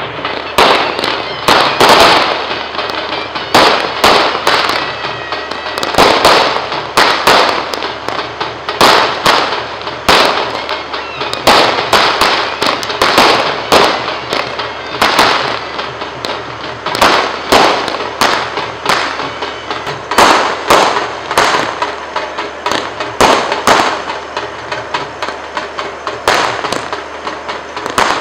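Fireworks going off in a continuous run of bangs and crackling: louder reports every second or two with many smaller cracks between them.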